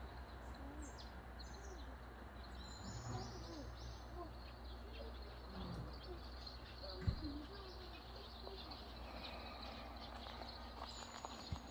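Quiet campground ambience with small birds chirping: short high calls in the first couple of seconds and again near the end, over a steady low rumble. A single knock about seven seconds in.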